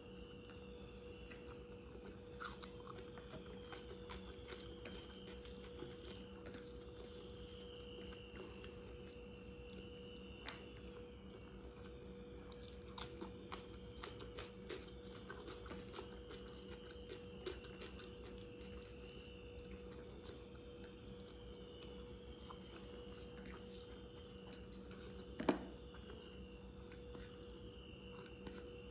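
Close-up chewing and small mouth clicks of a person eating rice and curry by hand, over a steady low hum. One sharp knock stands out near the end.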